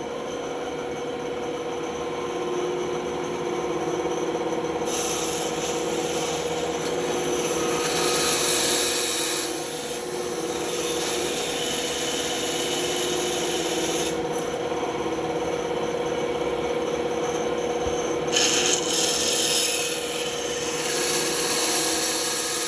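Band saw running with a steady hum while its blade cuts through wood, the cutting louder and hissier from about 5 to 10 seconds in and again from about 18 to 21 seconds.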